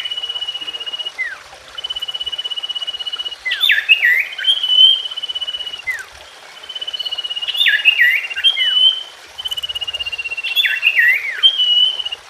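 Common iora (cipoh) singing: a rapid, even trill held for about a second and a half, then a quick burst of sharply falling whistled notes. The phrase repeats about every three seconds, four times over.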